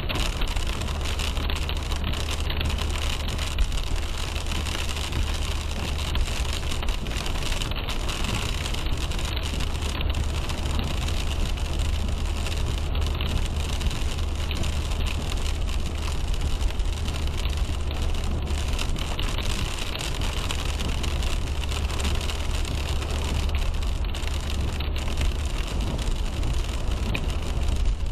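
A car driving in the rain: a steady low road rumble with the hiss of tyres on wet pavement and rain on the car.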